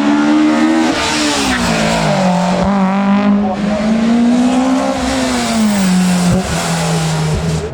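Hillclimb competition car's engine under hard acceleration, its pitch climbing and falling. It drops about a second in, climbs again, then falls around five seconds in as the car lifts and brakes, with a few short breaks in the note near the end.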